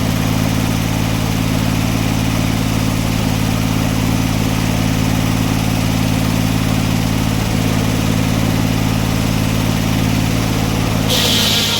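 Sawmill engine running steadily under load. About eleven seconds in, the blade starts cutting into a red pine log with a loud hiss.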